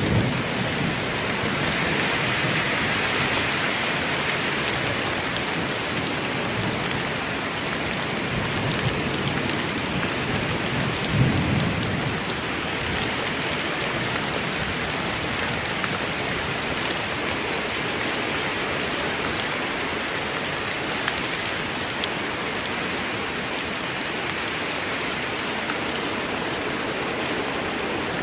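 Steady rain falling in a forest, an even dense hiss. About eleven seconds in comes a brief low rumble of distant thunder.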